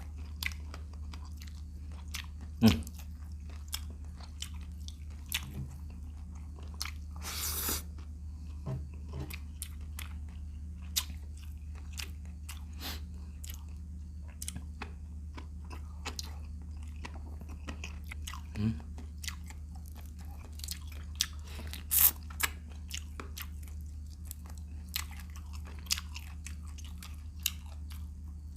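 Close-up eating sounds of shrimp: crunchy bites and wet chewing, with irregular sharp snaps, the loudest about 3 seconds in and again about 22 seconds in. A steady low hum runs underneath.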